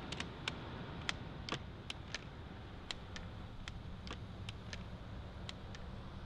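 Irregular sharp light clicks, two or three a second, over a steady low hum.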